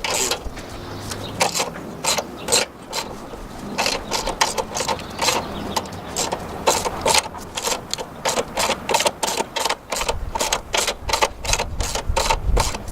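Car jack being cranked up with a ratchet wrench in place of the factory jack handle: quick, uneven metallic clicking, several clicks a second, with a low rumble joining in near the end.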